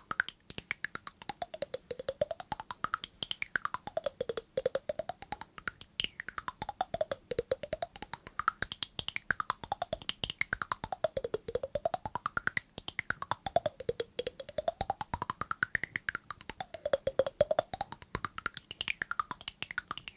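Rapid, dense tapping clicks, with a pitched sweep that slides down and back up again every few seconds, about seven times.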